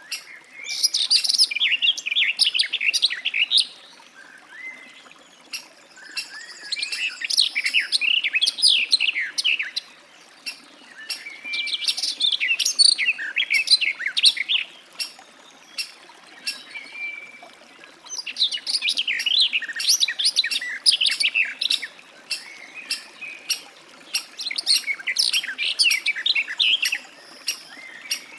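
Garden warbler singing: long, fast, mellow warbling phrases with short pauses between them. There are four phrases, and the last runs for most of the second half.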